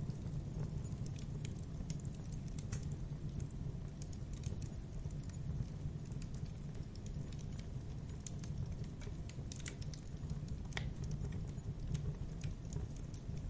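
Campfire burning: many small irregular crackles and pops from the burning wood over a steady low rumble of the flames.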